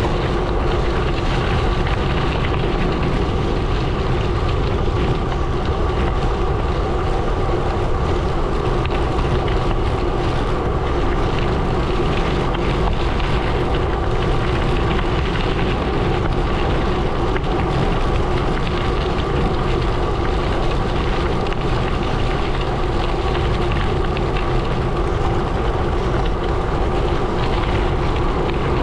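Gravel bike tyres rolling steadily over a gravel road, a constant crunching rush with a steady hum running through it.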